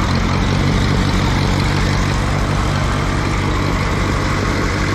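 Allis-Chalmers G tractor's four-cylinder engine running steadily.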